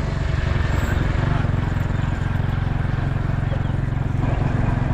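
Motorcycle engine running at a steady pace while riding, its fast even firing pulses under a continuous rush of wind and road noise.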